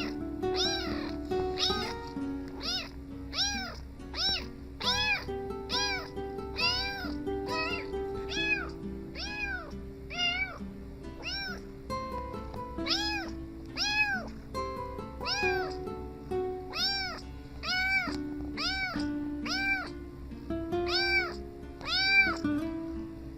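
Kittens meowing over and over, high-pitched calls that each rise and fall, about one every second, over background music.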